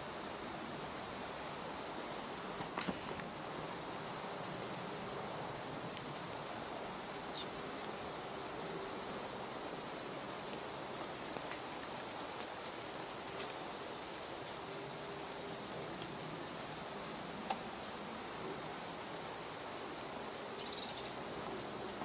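Short, high-pitched bird calls over a steady woodland background hiss, with a quick cluster of descending chirps about seven seconds in and scattered single chirps later.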